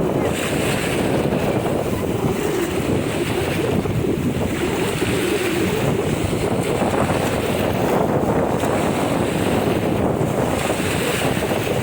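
Sea waves washing onto a beach with strong wind buffeting the microphone: a loud, steady noise heavy in the low end.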